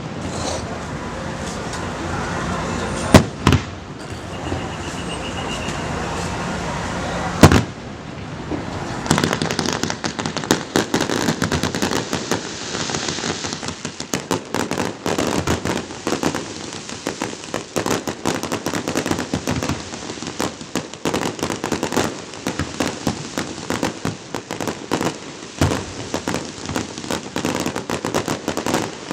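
Aerial fireworks show: three loud shell bursts in the first eight seconds, then a dense, continuous crackling and popping of many bursts.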